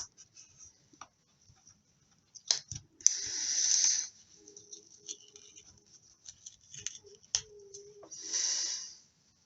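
Paper and a plastic ruler being handled on a craft table: scattered small taps and clicks, with two rustling, sliding sounds about a second long, one about three seconds in and one near the end.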